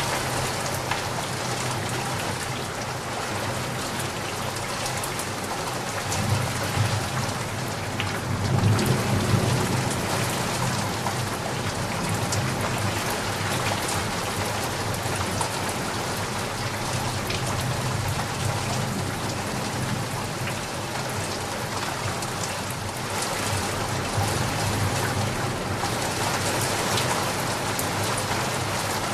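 Steady rain falling, a dense even hiss of drops on a surface. A low rumble swells between about six and ten seconds in.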